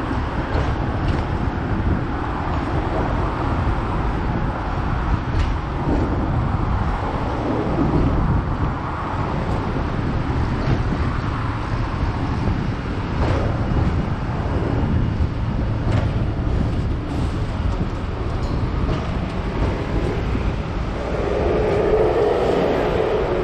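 Hong Kong double-decker tram running along the street, heard on board: a steady low rumble of wheels on rails with scattered light clicks and rattles. Near the end a louder mid-pitched sound rises over it.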